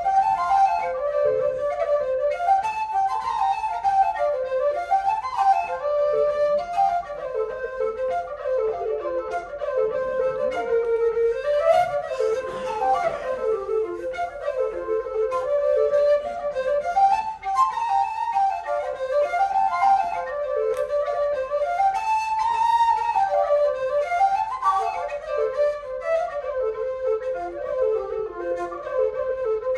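Live Irish traditional music: a fast melody of quick running notes led on a low whistle, with the band playing along.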